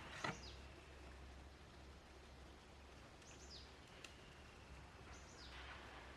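Faint wild bird calls: three high whistles, each falling in pitch, over a low steady hum. A sharp knock comes just after the start.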